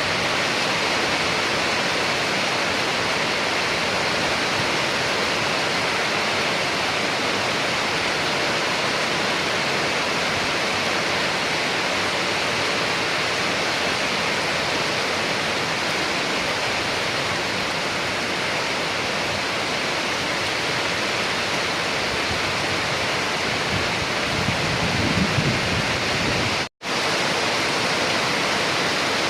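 Steady heavy rain, an even unbroken hiss. Near the end there is a brief low rumble, then the sound cuts out completely for a split second and resumes.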